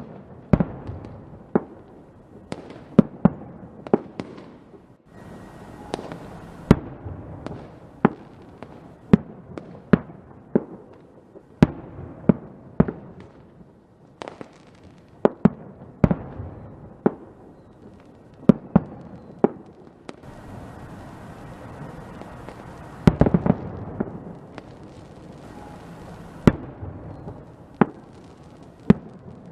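Fireworks going off: a long run of sharp, irregularly spaced bangs, each with a short echoing tail, over continuous crackling. The crackle thickens for several seconds past the middle, with a quick cluster of loud bangs about 23 seconds in.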